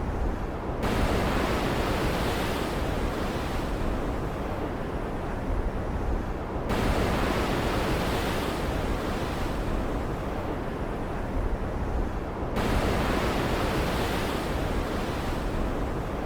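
Stormy sea ambience: heavy waves rushing and breaking, with a fresh surge starting suddenly about every six seconds and fading away, three times.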